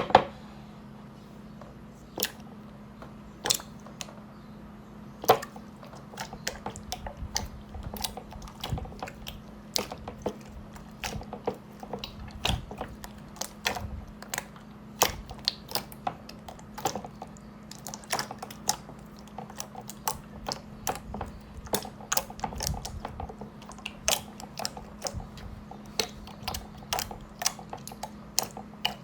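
Slime being worked by hand, giving a dense, irregular run of sharp clicks and pops, several a second, with a loud pop right at the start.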